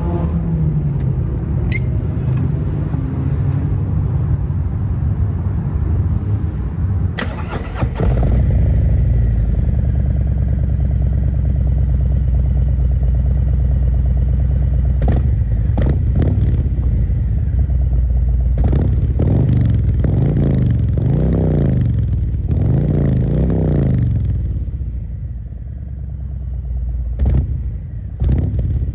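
Harley-Davidson Road Glide's Milwaukee-Eight V-twin starting up and idling through a full Khrome Werks 4.5-inch exhaust with a Stage 1 air cleaner and tune, a deep exhaust note. It gets much louder about eight seconds in. Past the middle the throttle is blipped several times, the pitch rising and falling with each, before it settles back to idle.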